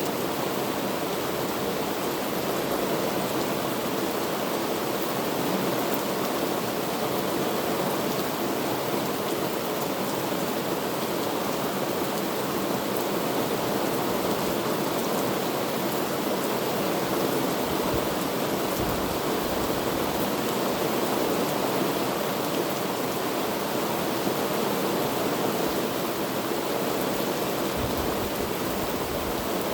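Heavy rain falling steadily, a dense, even hiss that holds constant throughout.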